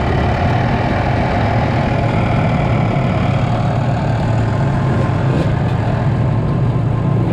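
Dirt bike engine running steadily at low revs, with no big throttle changes.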